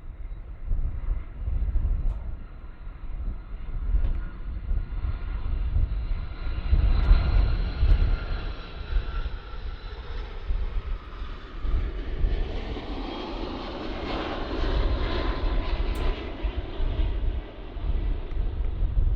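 Jet airliner passing, its engine rush building to a peak about three-quarters through, with a high whine that slips slightly lower in pitch as it goes by. Wind gusts rumble on the microphone throughout.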